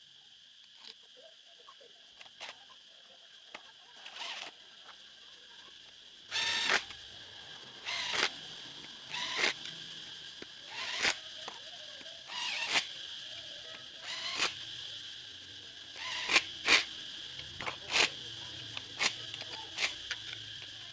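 Sharp clicks or knocks, about one every second and a half, beginning some six seconds in, over a steady high insect-like chirring.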